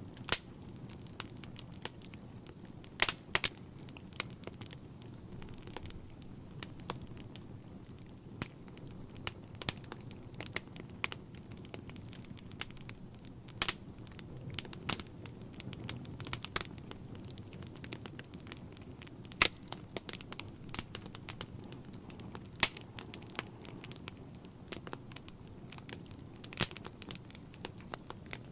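Wood fire burning in a fireplace: irregular crackling and sharp pops, with a few much louder snaps, over a low steady rumble of the flames.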